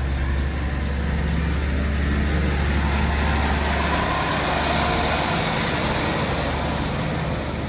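KiHa diesel railcar running: a steady low engine drone that gives way about halfway through to a broader rushing rumble of the train in motion.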